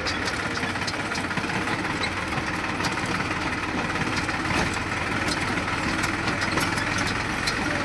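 Tractor diesel engine running steadily, with scattered light rattling ticks over it.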